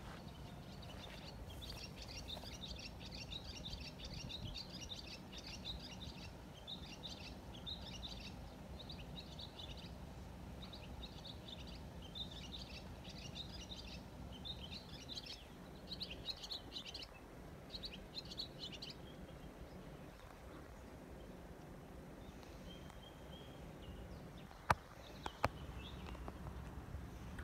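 A songbird singing a long run of short, rapid chirping phrases, which stops about two-thirds of the way through, over a steady low background rumble. Two sharp clicks come close together near the end.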